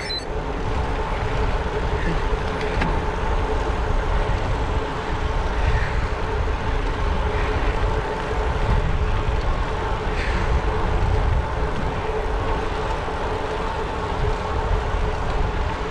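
Steady road noise from riding a bicycle: wind rushing over the microphone and tyres rolling on pavement, with a steady hum underneath.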